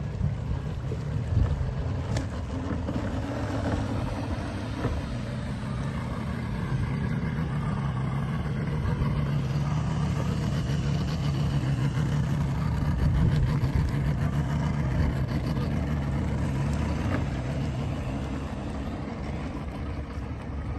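Engine of an 18-foot S1800 motorboat running steadily while under way, with water and wind noise over it. It grows louder through the middle, then eases off toward the end.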